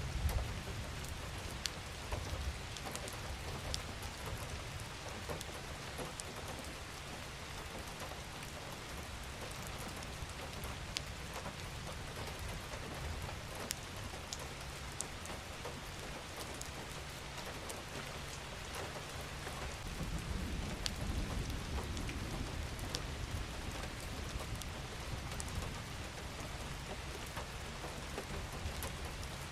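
Steady rain falling, with individual drops ticking sharply over an even hiss. A low rumble swells for a few seconds about two-thirds of the way through.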